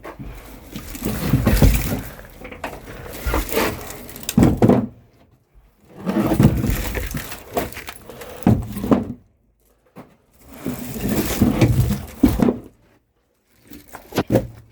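Firewood logs knocking and clattering as they are handled, in several bouts of wooden strikes with short pauses between them.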